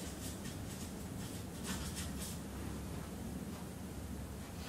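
Marker pen writing on flip-chart paper: a run of short strokes in the first two seconds or so, over a low steady room hum.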